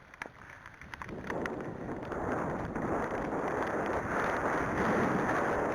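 Wind buffeting the microphone, rising from about a second in and growing steadily louder, with a few sharp knocks near the start.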